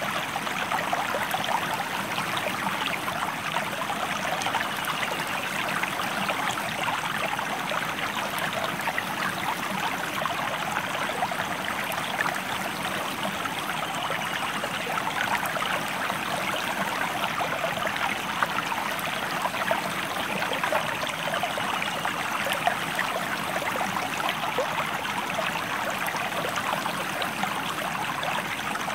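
Shallow stream flowing over rocks, a steady babbling and trickling rush of water.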